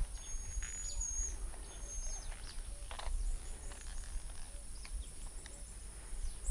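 Faint outdoor ambience with birds calling: thin high whistles, a couple held for about a second, and scattered short chirps over a low rumble. A single short sharp click comes at the very end.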